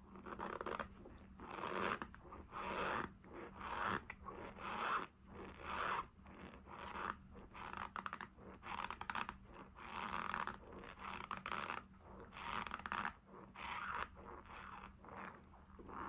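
A mouthful of Argo cornstarch powder chewed close to the microphone, in a steady run of chews about one a second.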